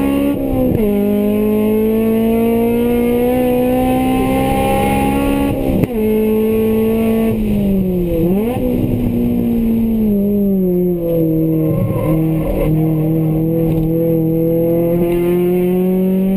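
Honda Integra's four-cylinder engine, heard from inside the cabin while the car is driven on track. Its pitch drops about a second in, then climbs steadily until about six seconds, falls off, dips and jumps back up quickly around eight seconds, and then runs fairly evenly.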